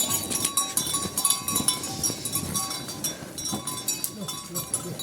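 Farm livestock calling, with low, wavering calls under a busy scatter of short clinks and high chirps.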